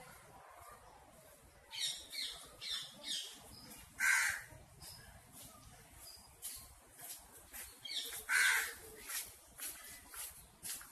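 Birds calling: a run of short calls repeated about every half second, starting about two seconds in, with two louder calls about four and eight seconds in.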